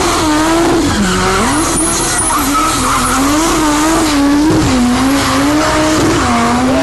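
A drifting car's engine revving up and down, its pitch wavering continuously, with tyres squealing and skidding as the car slides sideways.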